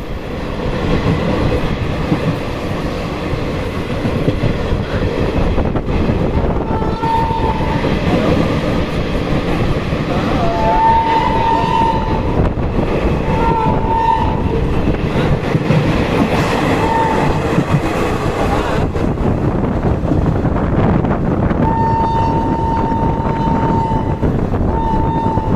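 Express train running at speed, with a steady loud rumble of wheels on the track. The locomotive's horn sounds several short blasts, then one longer blast and a short one near the end.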